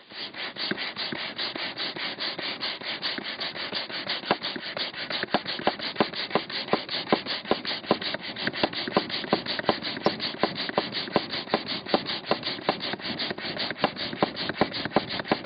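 Small plastic inflatable-boat air pump worked fast, a rapid rasping whoosh at each stroke, about four a second, blowing air into a campfire of wet wood.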